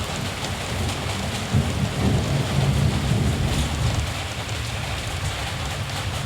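Steady rain, with a low rumble of distant thunder that swells in the middle and then eases off.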